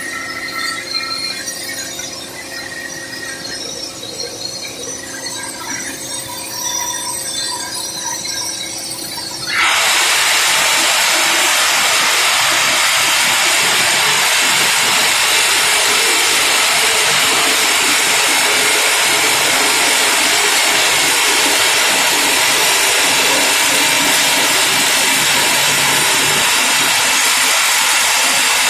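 Simba S7D long-hole drill rig running its hydraulics with some squealing, then about ten seconds in its rock drill starts up suddenly into loud, steady drilling that holds unchanged.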